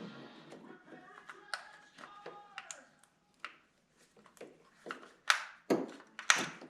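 A run of separate knocks and clicks, with short ringing tones about two to three seconds in and several sharp, louder knocks in the last second and a half.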